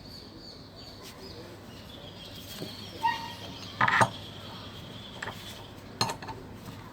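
A few sharp clinks and knocks of hard objects, the loudest about four seconds in, over a steady low background.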